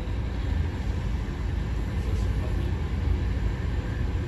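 Steady low rumble of a Czech Railways (ČD) Eurocity train under way, heard from inside its bistro car.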